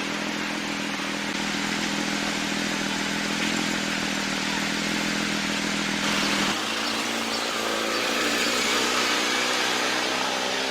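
Porsche 992 GT3 RS's 4.0-litre flat-six engine and exhaust running on the move under a heavy wash of road and wind noise. About six seconds in the engine note steps up in pitch and then climbs slowly as the revs rise.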